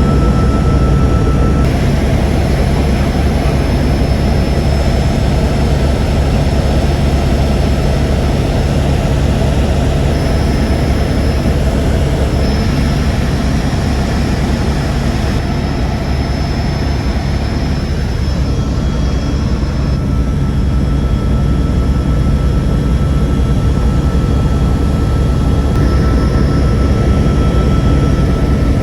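Twin Squirrel helicopter's turbine engines and rotor running steadily: a heavy low rumble with a thin, high turbine whine that fades in and out.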